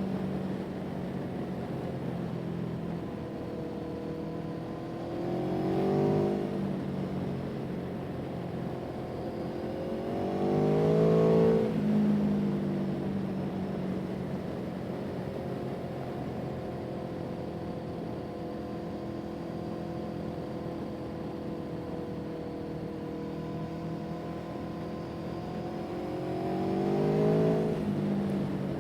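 An engine runs steadily, its pitch rising and getting louder three times as it is throttled up, at about six, eleven and twenty-seven seconds in.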